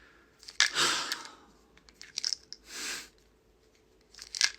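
Short bursts of rustling and crunching handling noise close to the microphone, the biggest about a second in, a soft hiss near the middle, and a few sharp clicks near the end.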